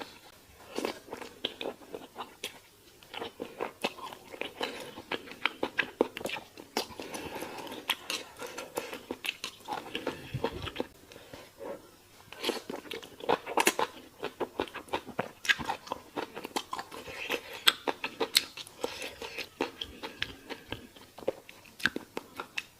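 Close-miked eating sounds: a person biting and chewing crunchy food, with many quick, irregular crackling clicks.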